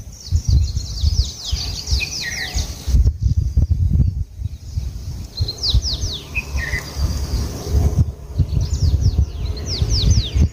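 A songbird sings three times, each phrase a quick run of high, falling notes. Underneath is a loud, uneven low rumble on the microphone.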